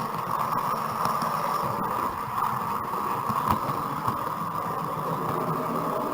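Steady running noise of a 00 gauge model train on the track: an uneven low rumble of wheels and motor over a constant whirring hiss from electric fans.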